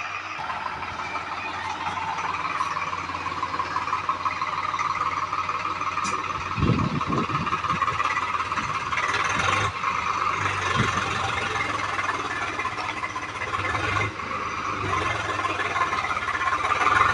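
Tractor engine running steadily, with a brief low rumble about seven seconds in.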